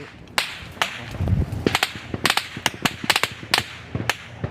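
Gunfire in a firefight: about fourteen sharp cracks and pops at irregular intervals, some in quick pairs and clusters, with no steady rhythm.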